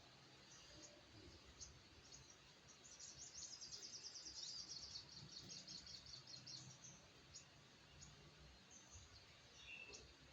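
Faint high chirps from a small bird, with a rapid run of chirps about three seconds in lasting around two seconds, over a low background hum.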